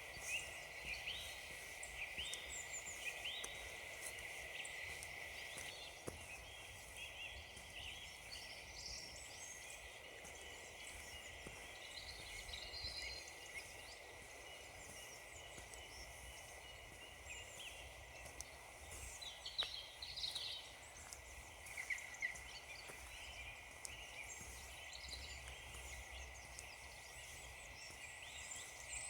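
Faint woodland songbirds chirping and calling, many short high notes overlapping throughout, with a few louder calls around the middle.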